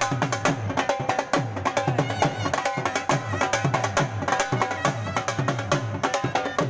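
Dhol drumming at a fast, driving rhythm of rapid strokes, with repeated deep bass strokes that drop in pitch. Held tones of an accompanying melody run over the drumming.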